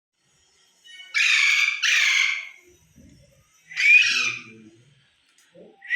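Pet parrot squawking: two harsh calls back to back, then a third shorter one about a second and a half later.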